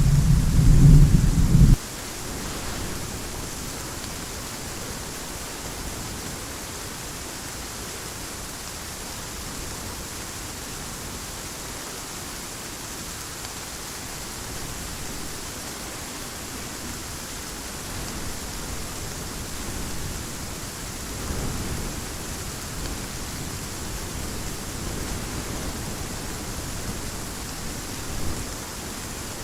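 Thunderstorm: a loud low thunder rumble at the start that cuts off abruptly about two seconds in, then a steady hiss of heavy rain, with a fainter rumble of thunder about two-thirds of the way through.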